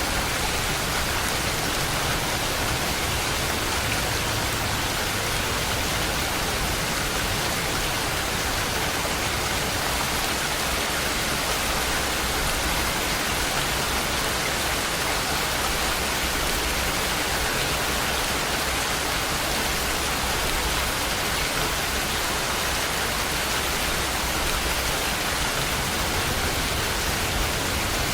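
Steady heavy rain falling, a dense, even hiss.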